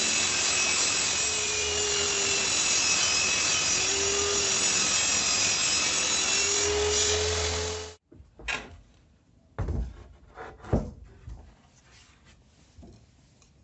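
Wood router running and cutting into wood, a steady high whine over a low hum, that cuts off suddenly about eight seconds in. After it, a few scattered light knocks and clicks.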